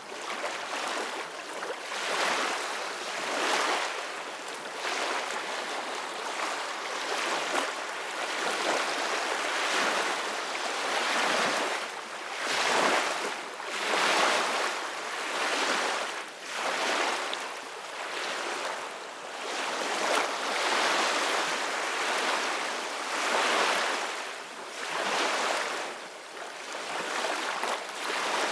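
Gentle ocean waves washing in one after another, a rushing hiss that swells and fades every couple of seconds.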